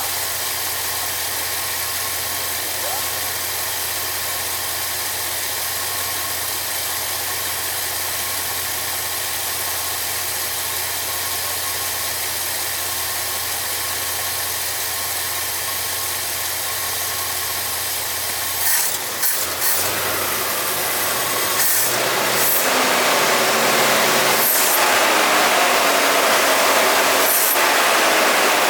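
1969 Ford F-250 engine idling steadily on its freshly rebuilt Autolite 2100 two-barrel carburetor. About two-thirds of the way through come a few knocks, and the sound then turns louder and brighter.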